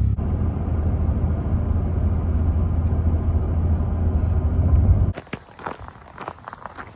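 Steady low rumble of road and engine noise inside a moving truck's cab. It cuts off abruptly about five seconds in, and a few footsteps follow.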